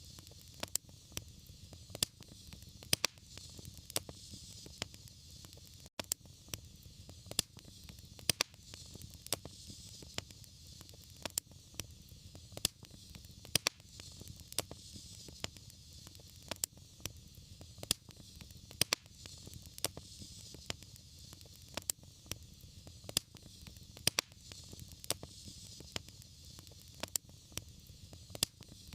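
Wood fire burning in a fireplace: a steady hiss and low rumble of the flames with frequent irregular sharp crackles and pops.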